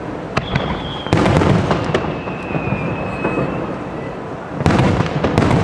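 Aerial fireworks display going off: a steady patter of bangs and crackling, swelling into two dense volleys of loud reports about a second in and near the end, with thin high whistles over the top.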